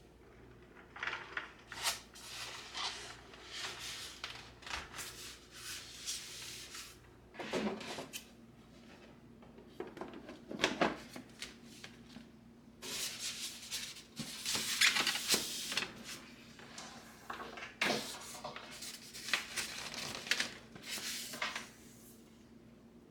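Irregular handling sounds of small household objects: light clicks, taps and rustles coming in uneven clusters, over a faint steady low hum.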